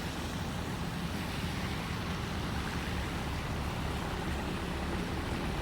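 Fast-flowing floodwater rushing, a steady low rumble under an even wash of noise.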